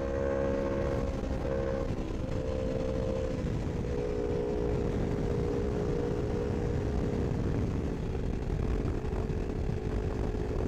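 Superbike engine running hard at a steady high speed, its note stepping a few times, over a heavy low rush of wind noise.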